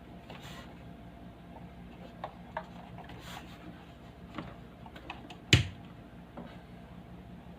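Low steady electrical hum, with a few scattered light clicks and taps and one louder knock about five and a half seconds in.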